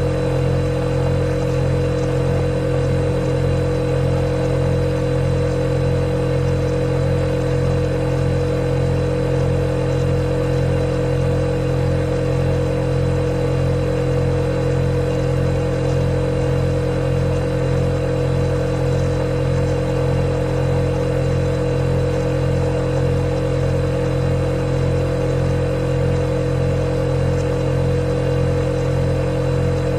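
Refrigerator running: a steady, unchanging low hum with a thin high tone above it.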